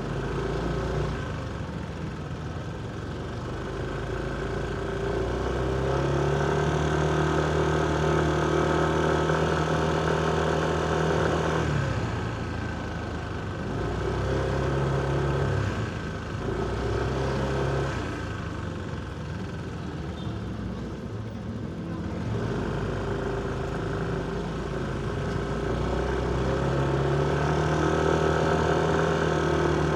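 Motorcycle engine running in city traffic, its revs rising and holding for several seconds, dropping back to a low run, rising briefly again, and climbing once more near the end.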